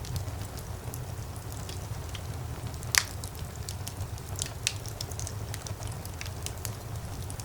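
Wood fire in a fireplace crackling, with scattered small snaps over a steady low rumble of the flames. One louder pop about three seconds in.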